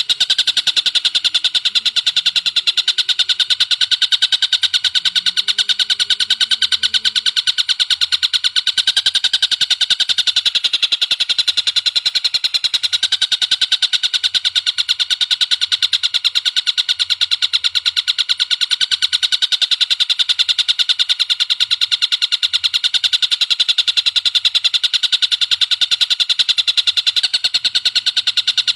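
A bird's long unbroken trill: very fast, evenly repeated high notes held steady throughout.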